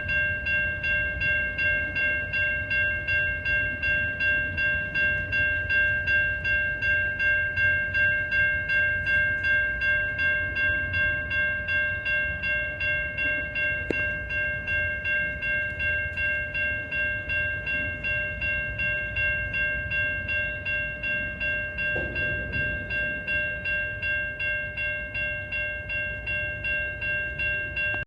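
Railroad grade-crossing warning bell ringing at an even pace, about two strikes a second, over the low rumble of a train on the tracks.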